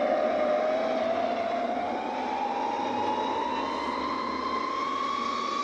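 Small multirotor drone's motors and propellers whining, the pitch rising slowly and steadily as the motors speed up.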